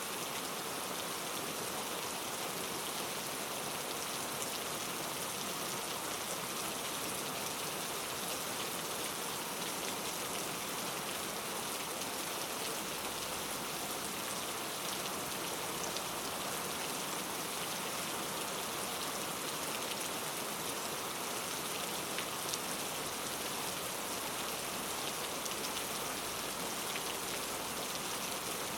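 Steady rain falling, an even hiss of rain with scattered small drop ticks.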